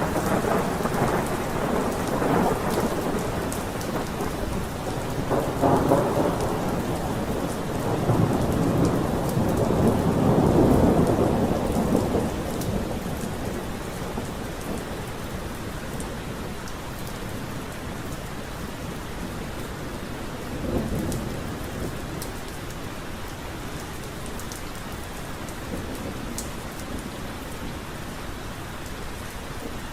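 Steady rain falling, with many fine drop ticks, under rolling thunder that swells through the first half, peaks around ten to twelve seconds in, and fades out; a brief, fainter rumble comes about twenty seconds in.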